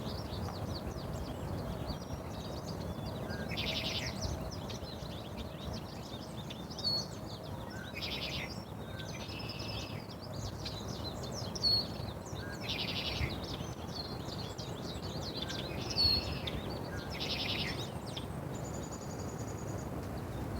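Small birds chirping and twittering throughout, with short buzzy trills repeating every couple of seconds, over a low background rumble of outdoor noise.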